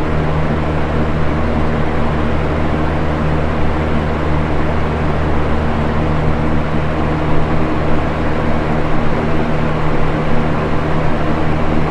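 Box fan running steadily: an even rushing of air over a low motor hum that holds one pitch.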